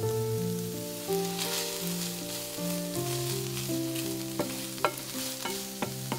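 Diced onion and ham strips sizzling in a non-stick frying pan while being stirred with a wooden spatula. Several sharp clicks of the spatula against the pan come in the second half.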